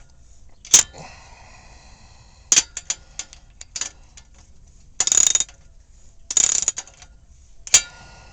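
Metal clinks and knocks on a steel muffler clamp and exhaust pipe as the clamp is worked into position; one knock about a second in leaves the pipe ringing briefly. Two short runs of socket-ratchet clicking follow, about five and six and a half seconds in.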